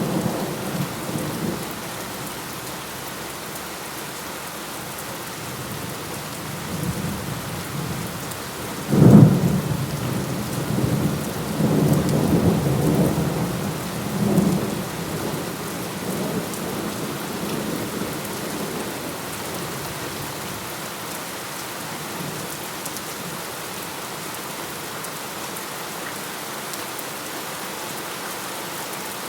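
Thunderstorm: steady rain throughout, with a sudden loud thunderclap about nine seconds in that rolls and rumbles for several seconds before dying away. The tail of an earlier rumble fades out in the first two seconds.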